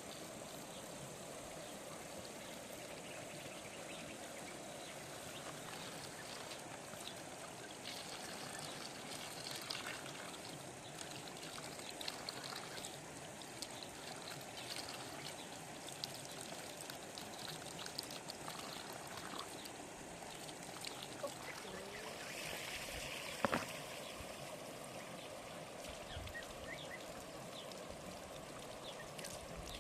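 Water running steadily, with scattered small clicks and one sharper knock about 23 seconds in.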